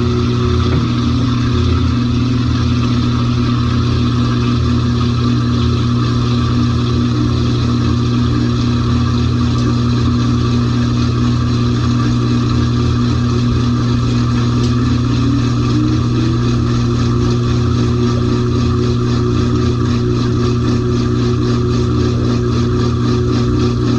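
LG 18 kg top-load washing machine running with a steady motor hum and a few tones that shift slightly in pitch now and then.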